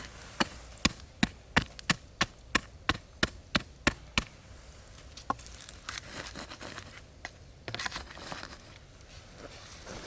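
A blade chopping on wood in a steady rhythm, about a dozen even strokes roughly three a second. It then gives way to quieter, scattered crackles and rustles.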